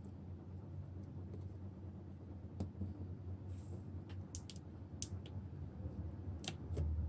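A handful of short, light clicks and taps at irregular moments over a steady low hum.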